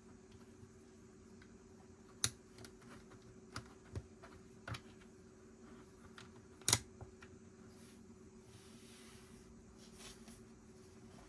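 Plastic Lego pieces clicking and tapping as they are handled and pressed together: a handful of separate sharp clicks, the loudest about six and a half seconds in, with a soft rustle near the end, over a faint steady hum.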